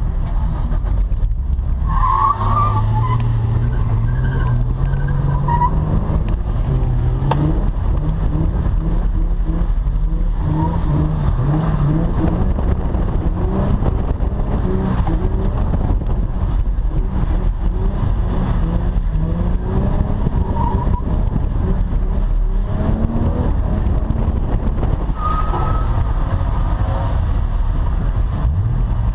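Holden VY Commodore ute's engine revving up and down over and over as the car drifts on a wet skid pan, with the tyres skidding and a few brief squeals.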